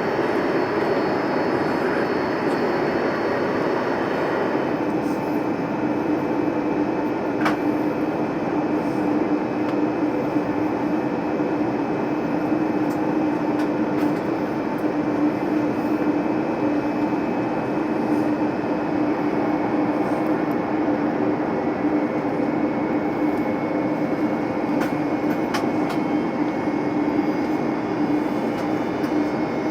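Steady cabin noise inside an Airbus A321neo on descent: an even rush of airflow and engine noise with a constant low drone.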